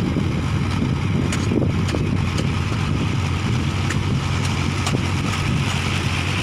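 Mahindra Arjun Ultra-1 555 DI tractor's diesel engine running steadily, with a few light ticks over the engine note.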